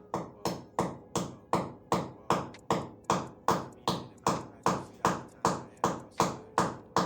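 A steady run of sharp taps or knocks, about two and a half a second, each with a brief ring.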